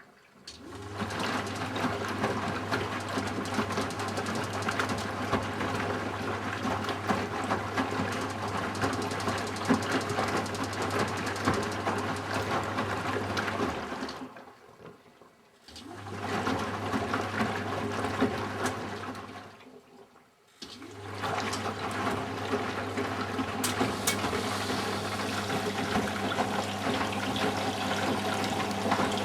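Eudora Sparmeister 702 Classic washing machine in its softener rinse: the motor hums as the drum tumbles the laundry through the rinse water, with sloshing water. The drum stops twice in the second half, for a second or two each time, then starts again.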